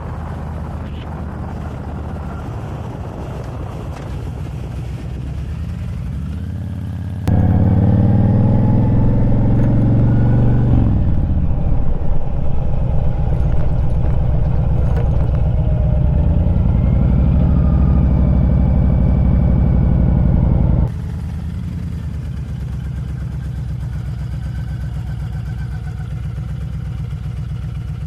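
Honda Fury's V-twin engine running while the motorcycle is ridden. For about fourteen seconds in the middle it is much louder, starting and stopping abruptly, with the engine note dropping and then climbing again as the speed changes.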